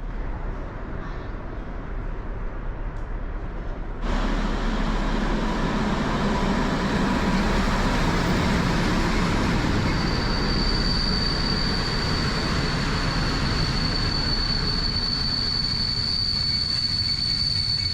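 A train running on the rails with a steady rumble, which gets abruptly louder about four seconds in. From about halfway a thin, high, steady wheel squeal rises over the rumble.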